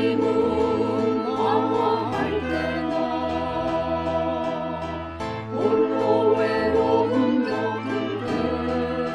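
Slow sacred choral music: sustained chords sung with vibrato, with a new chord swelling in about five and a half seconds in.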